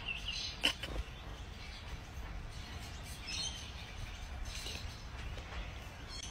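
Faint outdoor background: a low steady rumble with a few faint high chirps, and two light knocks within the first second.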